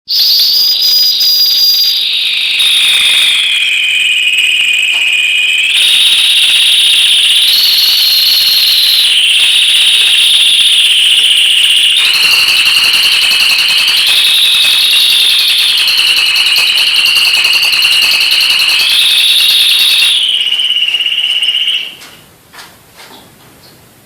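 Domestic canary singing a long, loud song of rapid high trills, switching to a new trill phrase every second or two, until it stops about 22 seconds in.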